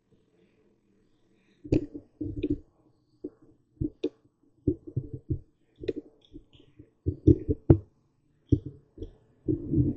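Séance table tipping: a wooden table's legs knocking and thumping on the floor in an irregular series of short thuds, starting about a second and a half in and coming faster near the end.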